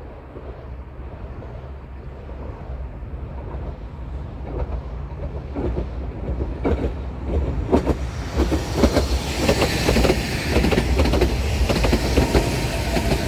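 Sanko Railway Hokusei Line 270 series narrow-gauge electric train approaching and passing close by, growing steadily louder. Its wheels click over the rail joints from about four seconds in, the clicks coming thicker, and a loud rushing noise builds over the last few seconds as the cars go by.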